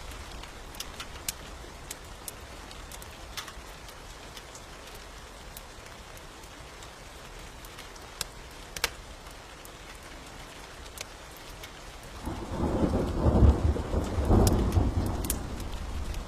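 Steady rain with scattered sharp ticks, then a roll of thunder rumbling in about twelve seconds in, the loudest sound, rising and fading over about three seconds.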